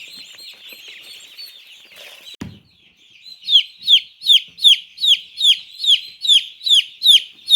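A brooder full of day-old chicks peeping, many overlapping chirps at first. A soft thump comes about two and a half seconds in. After a short lull, one chick gives loud, evenly spaced peeps that fall in pitch, about three a second.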